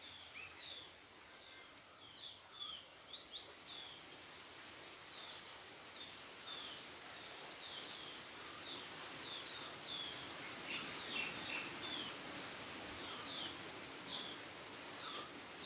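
Small birds chirping, short high calls repeating about twice a second over a faint steady hiss.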